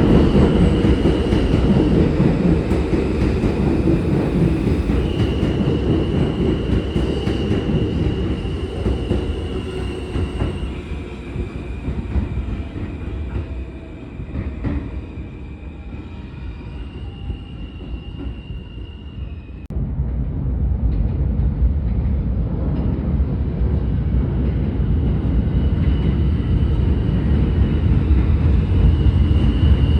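Passenger train rolling on rails: heavy low rumble with high, steady wheel-squeal tones that come and go and shift in pitch. The rumble eases off through the middle, then comes back loud suddenly about two-thirds of the way through.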